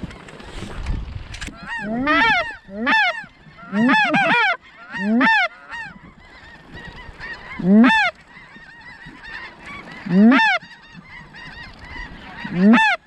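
Goose honks: about nine loud single calls, each rising then falling in pitch. They come in quick succession early on, then one every two or three seconds.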